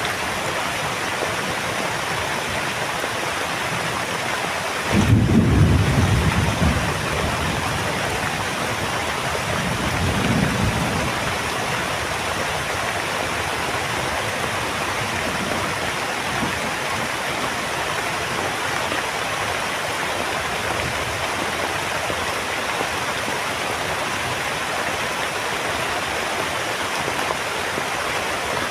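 Heavy, steady rain with thunder: a sudden loud low rumble about five seconds in that dies away over a couple of seconds, then a fainter rumble around ten seconds in.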